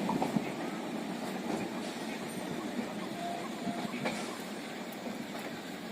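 Suburban local passenger train running past and moving away, its rumble fading in the first second to a steady lower rumble with a few faint clicks.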